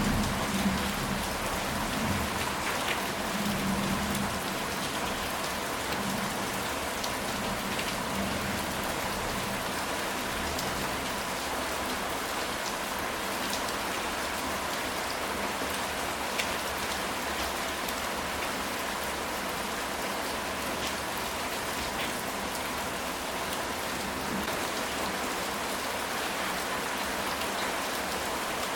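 Steady rain falling on a ceramic tile roof, an even hiss of drops. A faint low rumble comes and goes in the first ten seconds or so.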